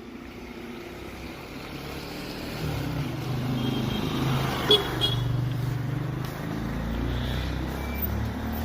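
Motor vehicle engine running close by, its low drone growing louder about a third of the way in, with a brief sharp knock near the middle and faint short horn toots.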